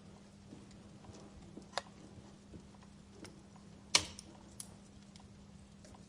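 Wood fire crackling in a fireplace: scattered small clicks, a sharper pop near two seconds in, and a loud snap about four seconds in.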